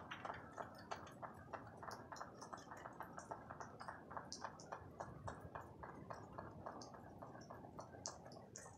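Rain dripping: faint, irregular ticks of falling drops, several a second, with a few sharper high clicks among them.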